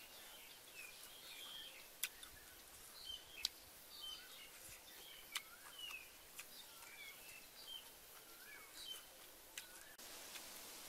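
Small birds chirping with many short calls over faint outdoor background noise. A few sharp clicks cut in, the loudest about two seconds and three and a half seconds in.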